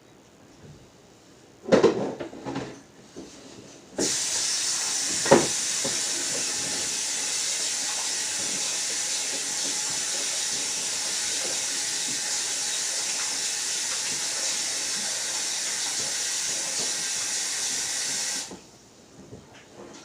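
A few clattering knocks, then a tap turned on and running steadily as a high, even hiss of water for about fourteen seconds before it is shut off suddenly: water running to rinse the chicken.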